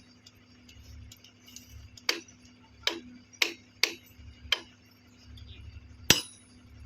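Sharp metal-on-metal taps from tool work on the point machine fittings, six irregular strikes with a short ring, the loudest about six seconds in.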